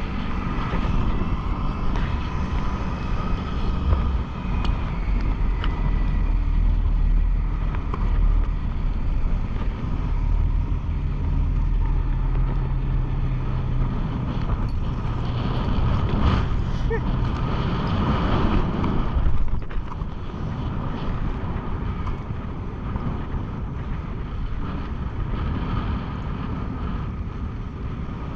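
Wind blowing across the microphone in a continuous low rumble, with the steady hum of a boat engine underneath.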